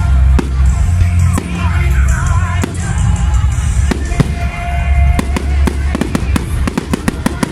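Fireworks going off in a display: rapid sharp bangs and crackles, coming thicker in the second half, over deep booming.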